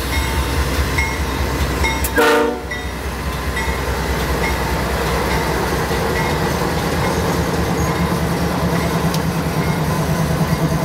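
Canadian Pacific GE AC4400CW locomotive's quiet electronic bell dinging repeatedly while the train rolls slowly past, with a steady rumble and clatter of the passing cars. About two seconds in, a short horn toot is the loudest sound.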